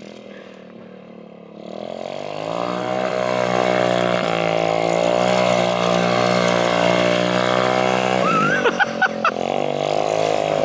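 Small Chinese minibike engine coming up in pitch and loudness about two seconds in as the bike is ridden close. It then runs hard and steady for several seconds. A short shout cuts in near the end.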